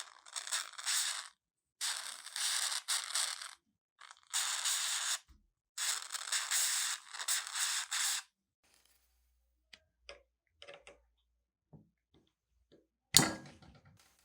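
Harsh metal scraping or grating in four bursts, each one to two and a half seconds long. A few light clicks follow, then a single sharp knock near the end.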